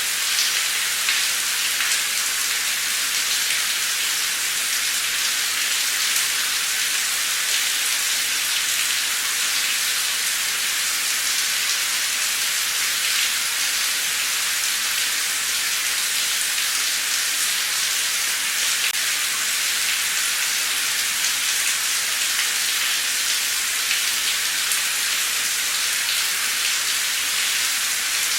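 Heavy torrential rain pouring steadily: an even, unbroken hiss of falling water, with scattered sharper drop ticks.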